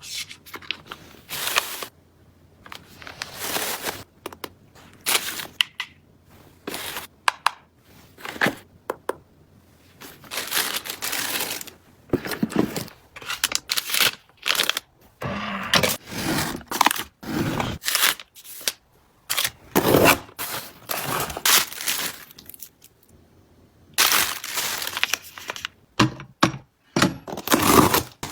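Plastic packaging being handled: irregular crinkling and tearing rustles in short bursts, with small knocks of items being moved.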